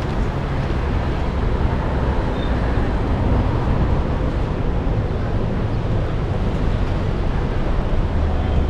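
Steady outdoor street noise: wind on the microphone with traffic going by.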